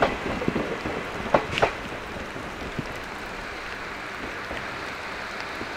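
Steam train's wheels clacking over rail joints for the first two seconds or so, then a steady rushing rumble as the train moves on.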